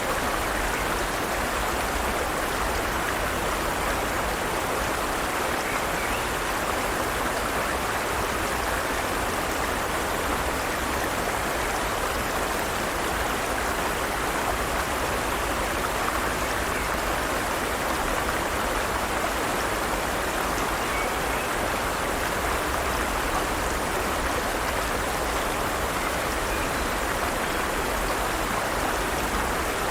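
Forest stream running water, a steady rushing and babbling with no change in level.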